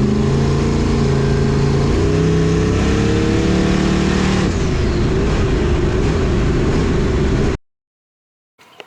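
Pickup truck engine revving hard under acceleration, its pitch climbing and stepping as it goes through the revs, then cutting off abruptly near the end.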